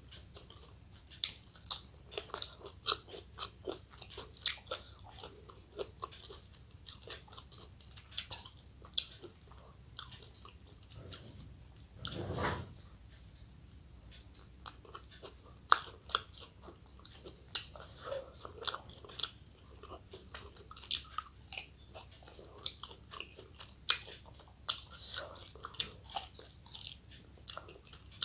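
Close-miked eating: a person chewing and biting mouthfuls of food, with many short crisp crunching clicks. About twelve seconds in there is one brief, louder rush of noise.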